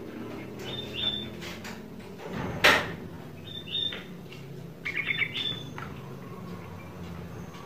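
A bird chirping in short high calls a few times over a steady low hum, with a brief loud rush of noise about two and a half seconds in.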